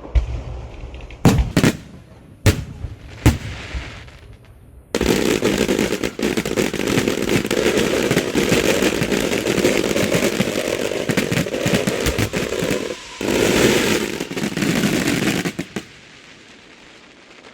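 Fireworks going off: a few separate loud bangs in the first four seconds, then a dense, rapid crackle like a long string of firecrackers that runs for about ten seconds, dips briefly, and cuts off near the end.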